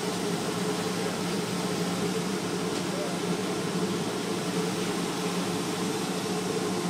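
Steady machine hum, a low even drone with a constant hiss over it, like an engine or blower running.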